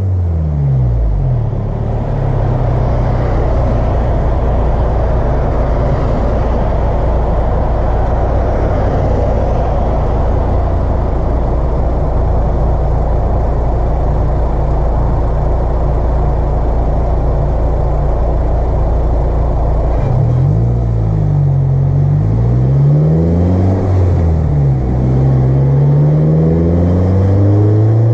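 Car engine fitted with an Acuity aftermarket cold air intake, dropping in revs at first, then cruising with a steady low drone and intake rush. From about two-thirds of the way through it accelerates, the pitch rising and dropping back at each of several gear changes.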